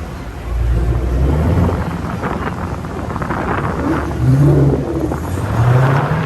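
Dodge Hemi V8 muscle-car engines rumbling, with two short rising revs about four and five and a half seconds in.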